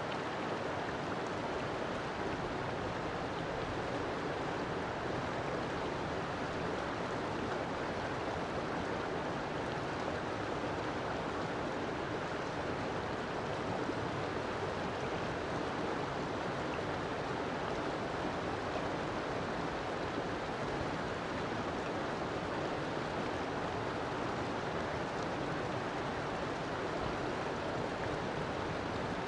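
River water flowing steadily, a constant rushing with no breaks or changes.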